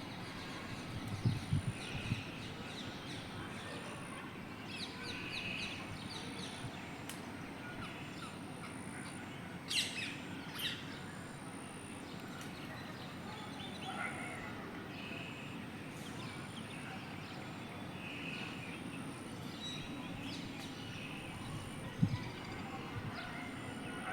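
Birds chirping and calling, with two sharp, loud screeching calls close together about ten seconds in.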